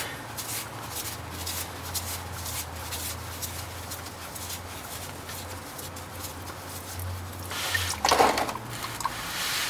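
Faint clicks and scrapes over a steady low hum as a loosened oil filter is turned off by hand. About eight seconds in comes a short whine.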